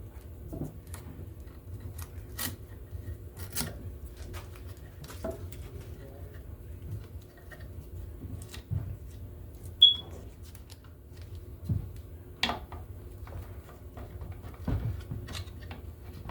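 Hand work on NM (Romex) cable: the outer plastic jacket being slit and trimmed away with a knife, giving scattered clicks, snips and rustles over a steady low hum. A short high squeak about ten seconds in is the loudest sound.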